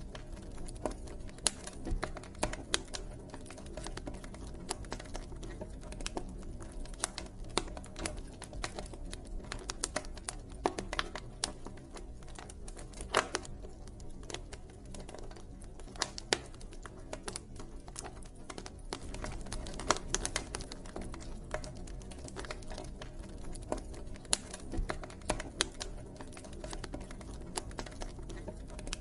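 Wood campfire crackling: irregular sharp pops and snaps, a few of them louder, over a low steady rush of the burning fire.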